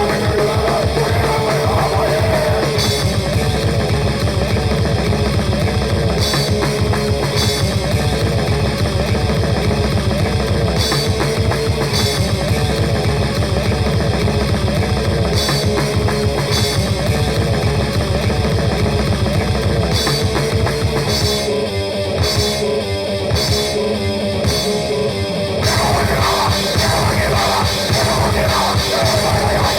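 Raw, noisy old-school grindcore: distorted guitars and bass over fast, pounding drums. About two-thirds of the way through, the band breaks into a few seconds of short stop-start hits, then the full wall of sound comes back.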